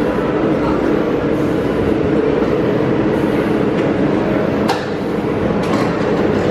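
Walt Disney World monorail train running, a steady loud hum and rumble, with a sharp click about five seconds in.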